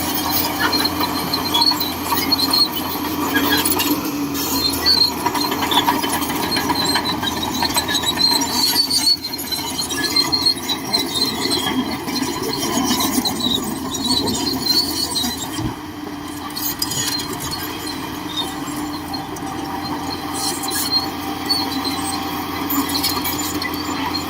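Shantui DH17C2 hydrostatic crawler bulldozer working: the engine runs steadily under load while the steel tracks squeal and clank continuously.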